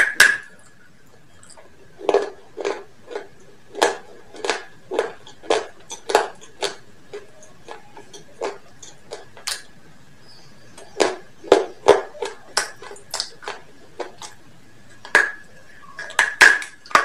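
Close-up chewing of crispy KFC fried chicken: crunching mouth sounds at about two a second, pausing briefly near the middle and starting again. A faint steady high tone runs underneath.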